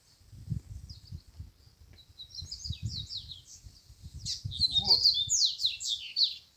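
Double-collared seedeater (coleiro) singing a fast phrase of high, sweeping chirps that starts about two seconds in, grows loudest and densest past the middle, and stops shortly before the end. Low rumbles run underneath.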